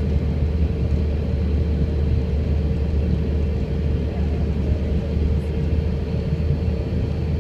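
Airliner cabin noise: a steady low rumble of engines and airflow with a constant hum, unchanging throughout.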